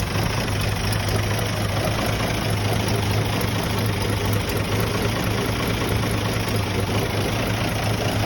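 1974 Toyota Land Cruiser FJ40's inline-six petrol engine idling steadily, a minute or so after a cold start and just beginning to warm up.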